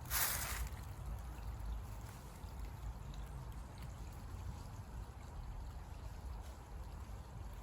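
A small stream running with a steady trickling flow, after a short rustling noise at the very start.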